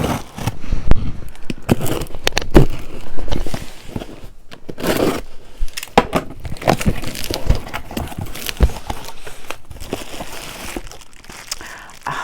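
Packaging of a sealed box being torn open and crinkled by hand, with irregular knocks and thumps as the box is handled; the sharpest knocks come about a second in and again shortly after, then softer rustling.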